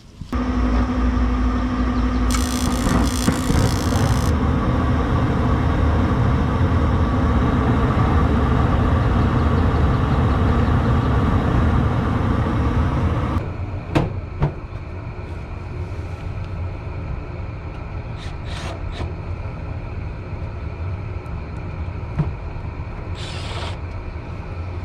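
Steady machine running noise with a heavy low rumble that starts suddenly. It drops to a quieter steady run about halfway through, with a few sharp clicks after that.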